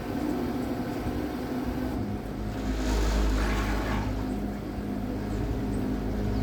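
Electric boat motor humming steadily over a low rumble, with a louder rushing noise swelling up about three seconds in.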